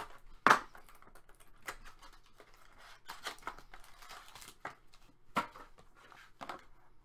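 Hockey card boxes and packs being opened and handled: cardboard and wrappers crinkling and tearing, with a sharp snap about half a second in, the loudest sound, and another about five seconds in.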